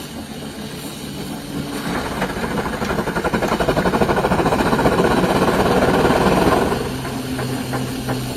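Rhaetian Railway R12 steam rotary snowplow working: its steam engine makes a fast, dense run of beats that builds, holds and eases off about seven seconds in, over a steady low hum.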